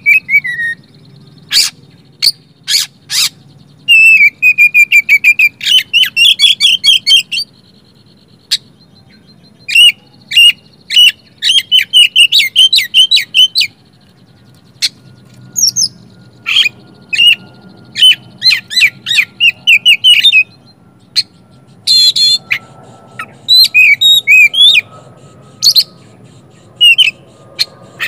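Oriental magpie-robin (kacer) singing a varied song of rapid chirps, sharp clicks and whistled warbling phrases in bursts with short pauses, running through its repertoire of learned phrases.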